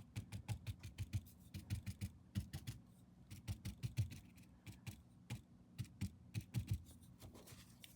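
Paint being dabbed onto a canvas with a brush: quick, irregular light taps, several a second.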